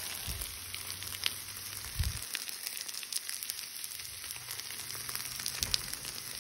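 Zucchini slices and buns sizzling on a hot Blackstone propane flat-top griddle, a steady frying hiss broken by a few light clicks and a few soft thumps.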